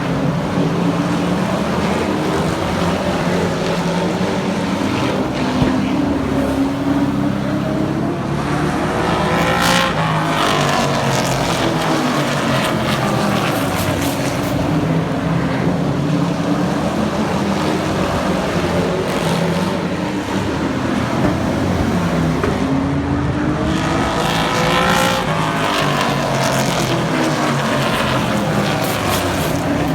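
Super truck racing engines running at speed on the track. The pack passes close twice, about ten seconds in and again near twenty-five seconds, its engine pitch rising and then falling as it goes by.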